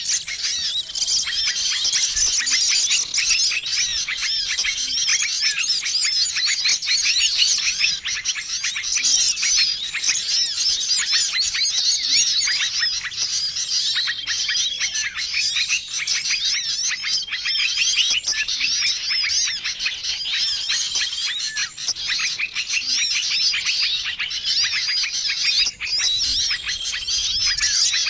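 Bird-luring recording of many small songbirds chirping and twittering over one another in a dense, busy chorus, with a short trill recurring every few seconds.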